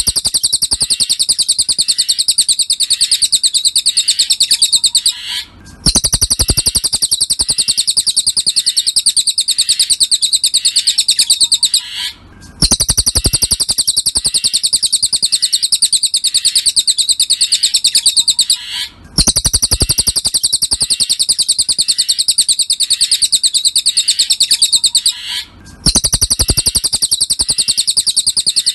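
Cililin bird song from a masteran tutor recording: a fast, high-pitched run of chirps, repeated in phrases of about six seconds with short breaks between them, four breaks in all.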